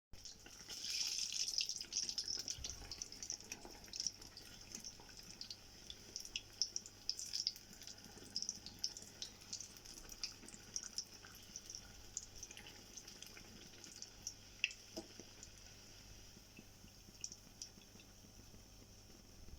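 Battered sweet potato slices deep-frying in hot oil: a sizzling hiss full of small crackles and pops, loudest a second or two in and then settling to a steadier fizz.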